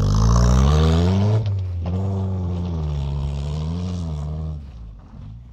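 Ford Probe 16V engine revving as the car pulls away hard, its front tyres spinning on loose dirt, then running under steady load as it drives off and fading about four and a half seconds in.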